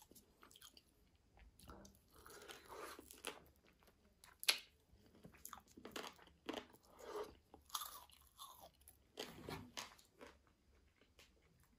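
Close-miked eating of breaded fried chicken and grilled potatoes: irregular crisp bites and wet chewing, with one sharp, loudest crunch a little before the middle.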